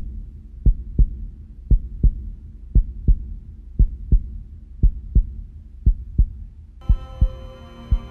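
Heartbeat sound effect: a slow, steady double thump, about one beat a second. About seven seconds in, a sustained chord of music swells in over it.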